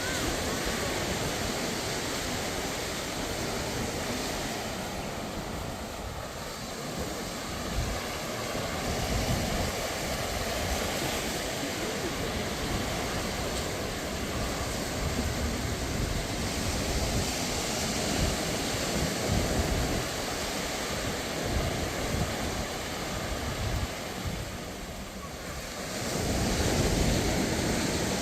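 Sea waves washing onto a sandy beach, a steady surf wash that swells and ebbs, with wind buffeting the microphone. The surf grows louder about two seconds before the end.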